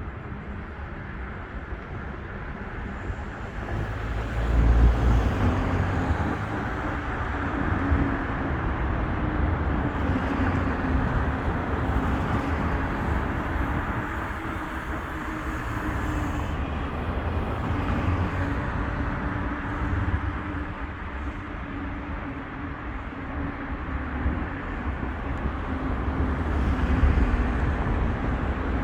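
Road traffic: a steady rumble of passing cars and tyres with a low drone, swelling louder about five seconds in and again near the end.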